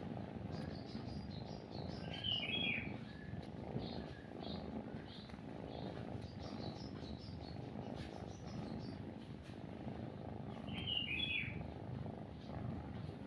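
A cat purring steadily and close, with songbirds chirping in the background; two louder bird calls come about two seconds in and again near the end.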